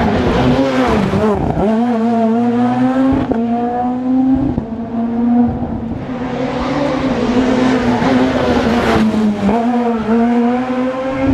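Rally car engine under hard load, its pitch climbing and then falling sharply several times as it revs through gear changes and lifts for corners.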